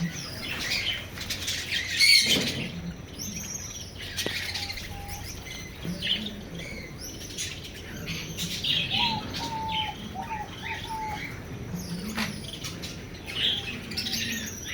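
Many small birds chirping and calling over one another, with a short run of four even notes about two-thirds through.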